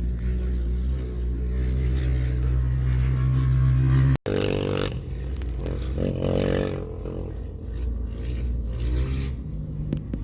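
Motorcycle engine running with a steady low tone; an abrupt cut about four seconds in, after which the engine sound swells twice.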